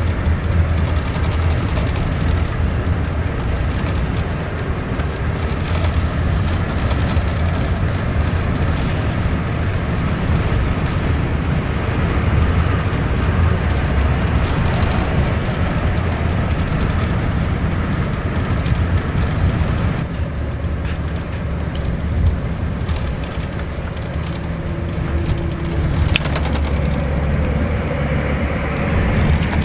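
Cabin noise of a Scania K410ib double-decker coach on the move: a steady low rumble from the engine and road, with scattered short rattles and knocks from the body.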